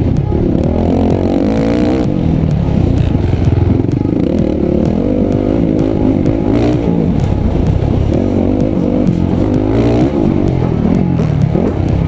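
Motocross bike engine running hard, its pitch rising and falling as the throttle is worked, with faint, fairly regular ticks above it.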